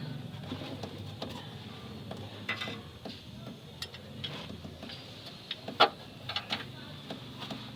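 Scattered metallic clicks and clinks of tools and a metal engine-mount bracket being handled and worked into place. The sharpest click comes about six seconds in, among a cluster of lighter ones.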